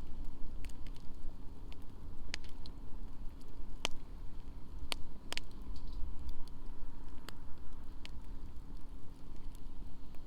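Wood fire in a campfire stand crackling, with irregular sharp pops, the loudest a few seconds in, over a low steady rumble.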